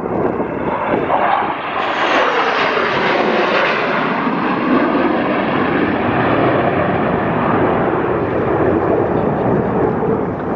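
Loud jet-engine roar of a U.S. Air Force Thunderbirds F-16 fighter passing by, growing harsher about two seconds in, with a sweeping, shifting tone as it goes over, and easing near the end.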